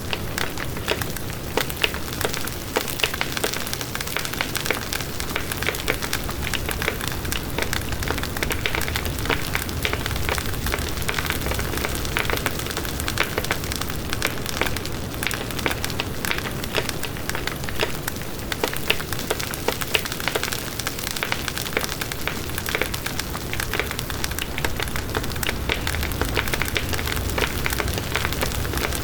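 Campfire burning, with many small crackles and pops of wood over a steady hiss and low rumble.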